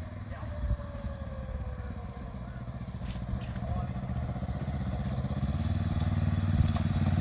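Yamaha motorcycle engine running as the bike approaches, a low steady drone growing steadily louder.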